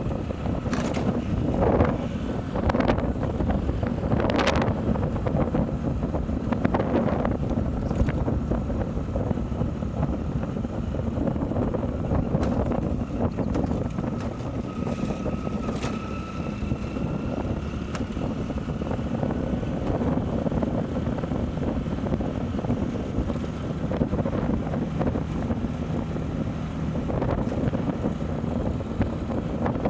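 Motorcycle running on the move, its engine under heavy wind noise buffeting the microphone, with a few knocks in the first several seconds.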